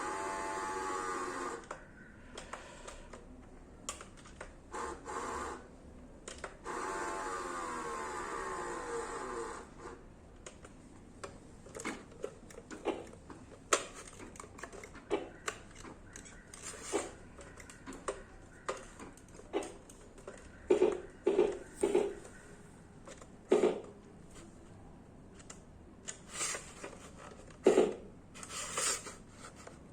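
A small electric motor whirring in a few short runs, its pitch curving and sagging, over the first ten seconds. After that come irregular light clicks and taps, like plastic parts being handled.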